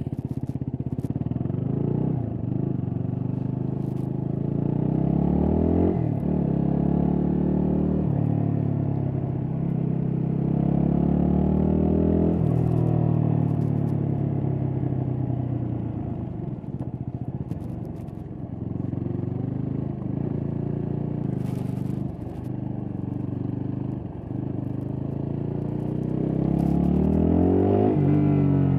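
Yamaha WR250X's stock single-cylinder four-stroke engine accelerating through the gears while riding: the revs climb and then drop sharply at each upshift, several times over, with a long climb near the end.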